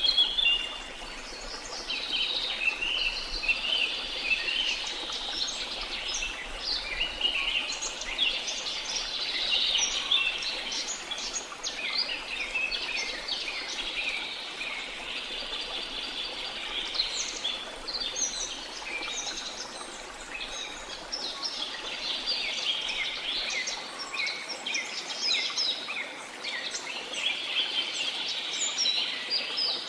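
A dense chorus of many forest birds chirping, trilling and calling over one another without a break, over a faint steady hiss.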